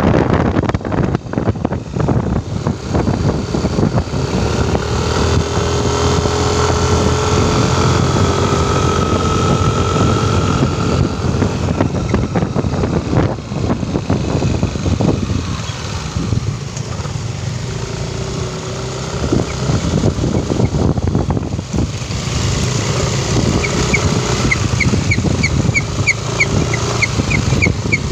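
A road vehicle on the move: engine running under steady road and wind noise. Near the end comes a quick run of high-pitched ticks, about four a second.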